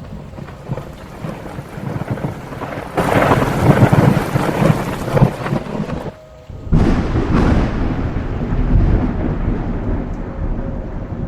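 Thunder in a heavy thunderstorm with rain falling: a loud clap about three seconds in rolls on for a couple of seconds, and a second one a little past the middle rumbles away slowly.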